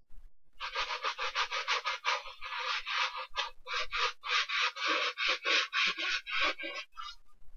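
A brush scrubbing a sneaker in quick back-and-forth strokes, about six a second, stopping shortly before the end.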